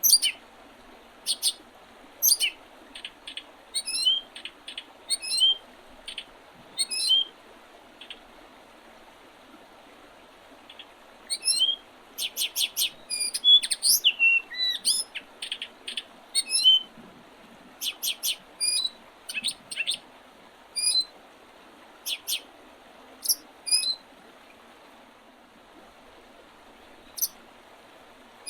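Small songbirds giving short, sharp chirps and calls in bouts, with a few seconds' pause twice, over a faint steady hiss.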